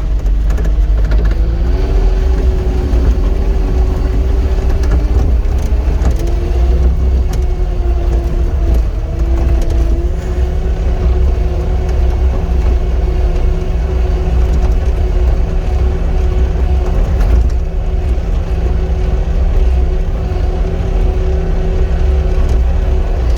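Cat 259 skid steer's diesel engine running steadily under work, with a continuous whine that shifts slightly in pitch a few times as the machine is worked.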